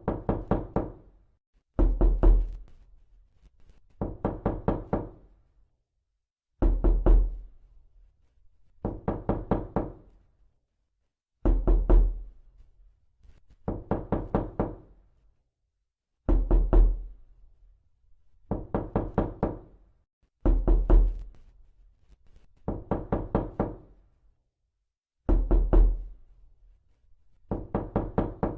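Repeated knocking: short bursts of four to six quick knocks, about every two seconds, some bursts with a heavier, deeper thud than others.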